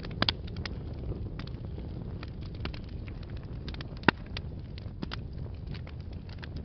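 Wood fire burning in a fireplace: a steady low rumble of flames with scattered crackles and pops, a quick double pop just after the start and one sharp, louder pop about four seconds in.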